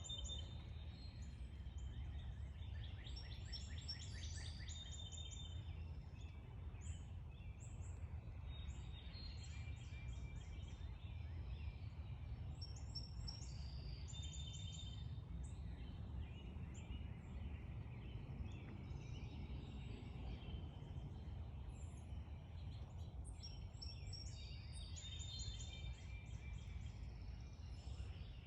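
Backyard songbirds chirping and trilling in repeated bursts of rapid high notes, over a steady low rumble of background noise.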